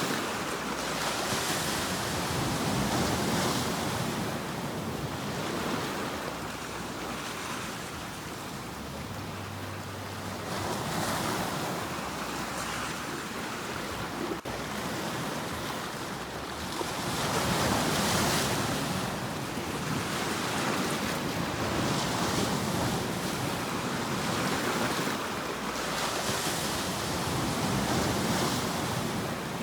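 Sea waves washing in and breaking, the surf noise swelling and fading every few seconds.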